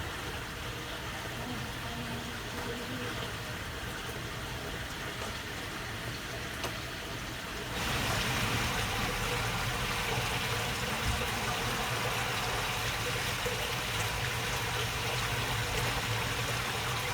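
Water babbling steadily through a narrow waterway channel, louder and brighter from about eight seconds in.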